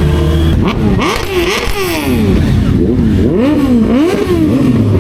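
Honda CBR650R's inline-four engine revving, its pitch climbing and dropping again and again, with wind rushing over the microphone.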